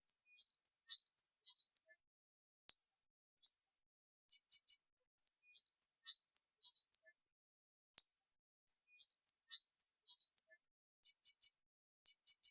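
Kemade bird calling in a repeating series of sharp, high-pitched chirps: short upward-sweeping whistled notes and quick runs of three or four clipped notes, with brief gaps in between. These are the piercing 'cit' calls used to lure wild birds and to tutor caged songbirds.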